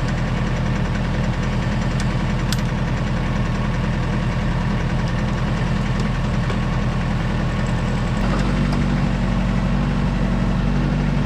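Tractor engine idling steadily, its speed stepping up slightly about eight seconds in.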